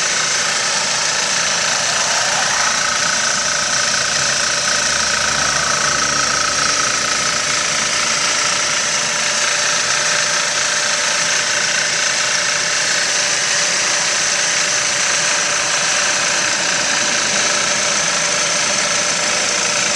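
Fuel-injected 2.0-litre car engine idling steadily with the hood open, shortly after a cold start.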